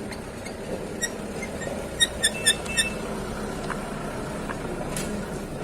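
White-rumped shama (murai batu) giving short, sharp, high-pitched notes: one about a second in, then a quick cluster of four about two seconds in, over steady low background noise.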